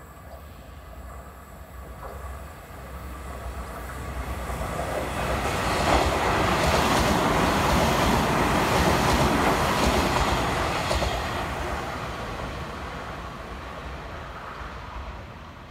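Electric commuter train passing on the track, its wheel and rail noise building, loudest for several seconds in the middle as the cars go by with some clacks over the rail joints, then fading away.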